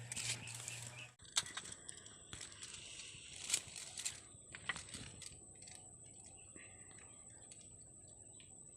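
Faint rustling and crackling with scattered sharp clicks, over a steady high-pitched whine.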